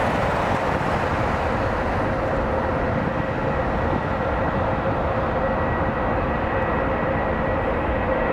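Boeing 787-10's two GEnx-1B turbofan engines at takeoff thrust: a steady jet noise with a faint whine, its high end slowly fading as the airliner moves away.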